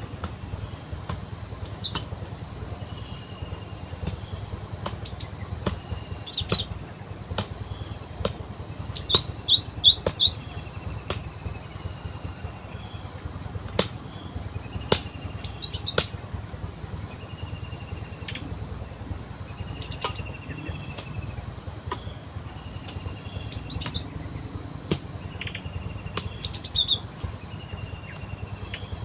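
Cinereous tit (gelatik batu) calling in short bursts of quick, sharp high notes, about seven bursts, the longest near ten seconds in, over a steady high-pitched drone of insects.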